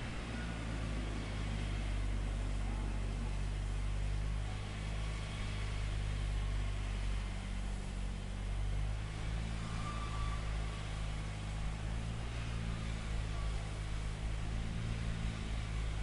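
A heavy engine running steadily with a low, even hum, with a haze of noise above it.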